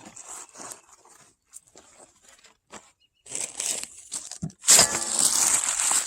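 Rustling and crinkling, as of a plastic bag or packaging being handled. It is irregular and faint at first, then gets much louder and busier about halfway through.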